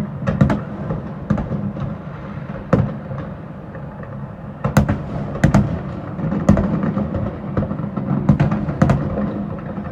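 Fireworks exploding: about ten sharp bangs and booms at irregular intervals, several close together near the middle and the end, over a continuous low rumble of further bursts.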